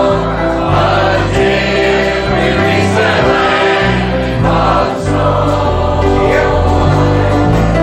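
Choir singing a gospel hymn with instrumental accompaniment and a bass line that moves note by note.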